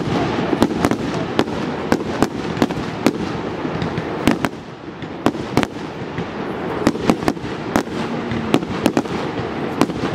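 Aerial firework shells bursting one after another, a quick irregular run of sharp bangs over a continuous rumble, with a brief lull about halfway through.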